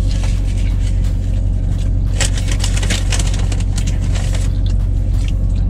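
Dodge Charger engine idling with a steady low rumble. Over it come crinkles and rustles from a foil-wrapped burger and its paper wrapper, thickest in the middle, along with chewing.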